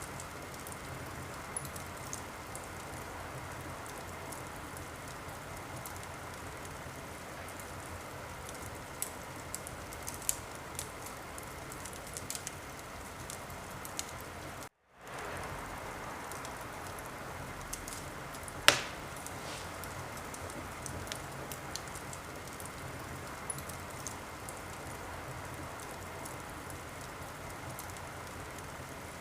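Wood fire crackling: a steady hiss with scattered small pops and one loud, sharp pop about two-thirds of the way through. The sound cuts out completely for a moment about halfway and fades back in.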